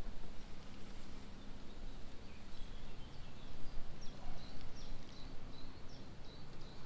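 A small bird chirping in a run of short, high notes from about two and a half seconds in, over a steady outdoor noise.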